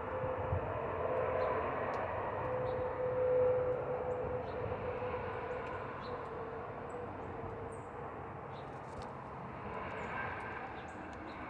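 A steady droning hum with a held tone that swells a few seconds in and slowly fades, like something passing by, with faint short chirps above it.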